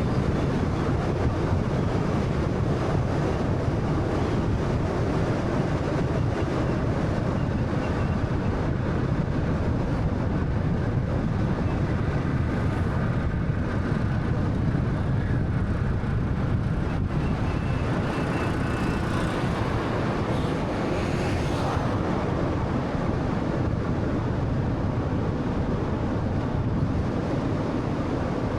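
Steady road and tyre noise of a 2013 Honda Fit 1300cc hatchback driving along, a low rumble with wind noise mixed in. Faint whining tones come and go in the middle.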